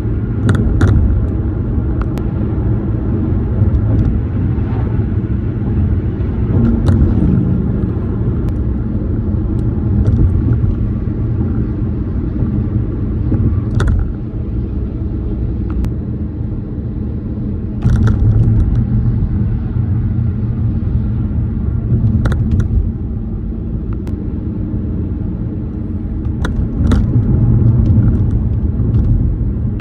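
Tyre and road noise heard from inside a moving car: a steady low rumble with sharp knocks every few seconds. The rumble grows louder about 18 seconds in and again near the end.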